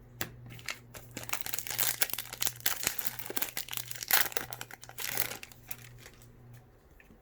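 Plastic wrapper of a baseball card pack being torn open and crinkled by hand, a run of crackling rustles that is busiest in the middle and dies down about two-thirds of the way through.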